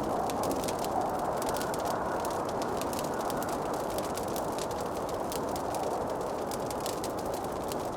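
Wood fire crackling in a fireplace: many small, quick pops and snaps over a steady low rushing hiss.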